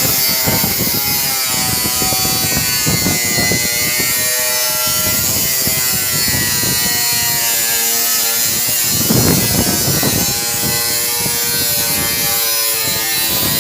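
Steady mechanical buzz and hum over a constant hiss, its tones shifting slightly in pitch, with a rougher, louder stretch about nine seconds in.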